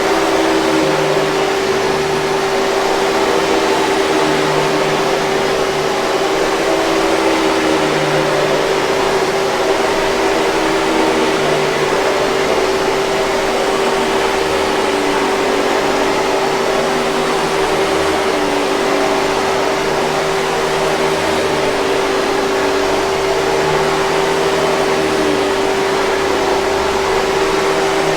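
Hoover 5000 Series canister vacuum cleaner running steadily: a constant airflow rush with a steady motor hum.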